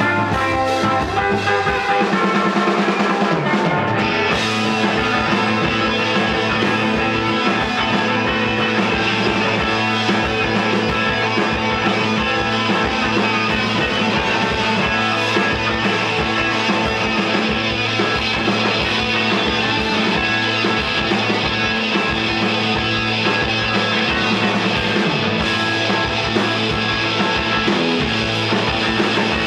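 Live rock band playing an instrumental passage with electric guitar and drum kit; the first few seconds are thinner, then the full band with drums comes in about four seconds in.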